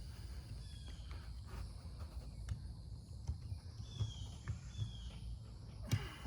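Light metal clicks and taps of hand work on snap rings, with a sharper click near the end, over a steady high drone and a few short, high chirps.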